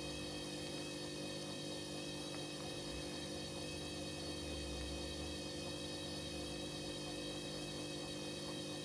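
Hoover H-Wash 300 washing machine running, a steady electrical hum, with a low rumble swelling for a couple of seconds around the middle.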